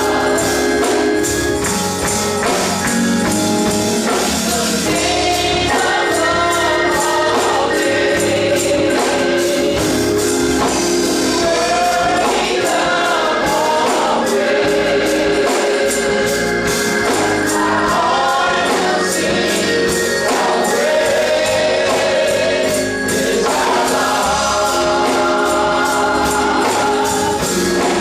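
Gospel choir singing with instrumental accompaniment, a tambourine shaken in a steady rhythm throughout.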